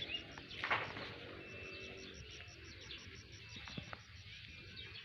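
Outdoor insect and bird sounds: an insect chirrs in rapid, even pulses, while short, steady whistled bird calls repeat every second or so. A brief louder noisy sound comes just under a second in.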